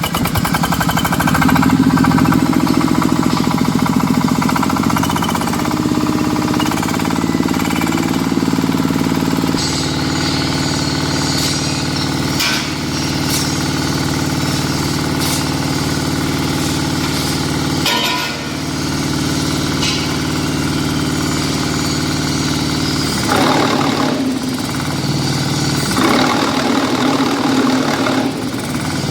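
Diesel engine of a QTJ4-40 hydraulic concrete block making machine running steadily, its tone stepping up and down a few times. Near the end come two short, rougher and noisier stretches.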